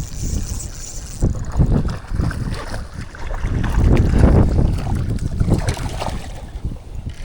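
Wind buffeting the microphone in irregular gusts, with choppy water slapping against a kayak's hull.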